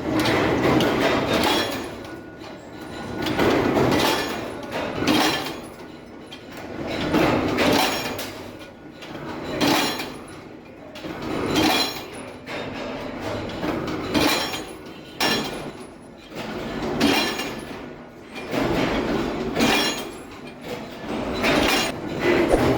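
Workshop metalworking sounds: repeated metal knocks and clinks over machinery noise that swells and fades about every two seconds.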